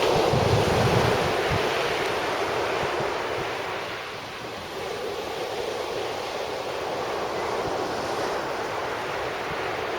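Sea waves breaking and washing up the beach, loudest near the start with wind buffeting the microphone, then easing about four seconds in to a steady wash.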